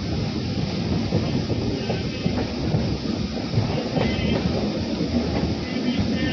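Moving passenger train heard from on board: steady running noise of the wheels on the rails.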